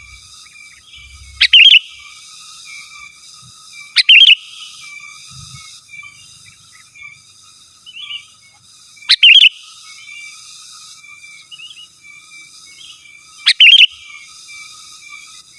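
Sooty-headed bulbul (kutilang) calling loudly: four short, sharp phrases a few seconds apart, over a faint, continuous chatter in the background.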